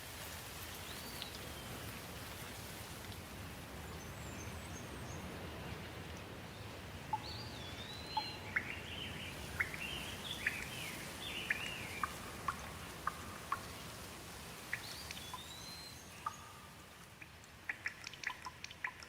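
Steady rain falling, with small birds chirping through it in short sweeping calls. Near the end the rain thins out to separate drips.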